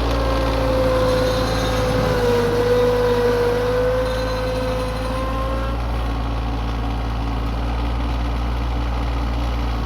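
Tractor engine running steadily, with a whine over it that dips in pitch and then drops out about halfway through.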